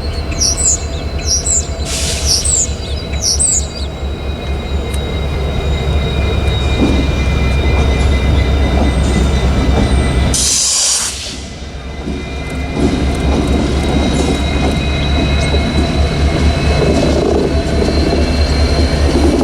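Freight train rolling past, a steady rumble of wheels on rail with high steel wheel squeal held throughout. The rumble eases briefly about eleven seconds in. Birds chirp over it in the first few seconds.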